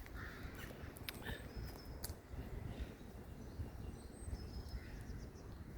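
Faint, scattered birdsong: a few short high chirps and whistles, over a steady low rumble.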